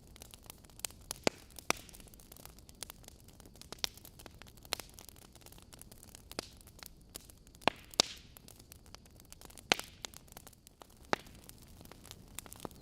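Wood logs burning in a fireplace: a low steady hiss with irregular sharp crackles and pops, a few louder snaps among them.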